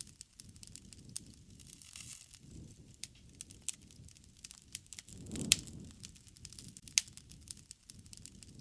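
Campfire burning: wood crackling with scattered sharp pops over a low rush of flame. About halfway through the flame noise swells and a loud pop stands out, and another sharp pop follows soon after.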